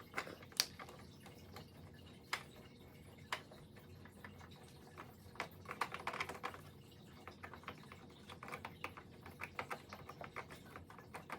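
Scattered light clicks and ticks of a screwdriver working screws out of an Epson L1800 printer. A few sharper single clicks come in the first few seconds, then small irregular clusters.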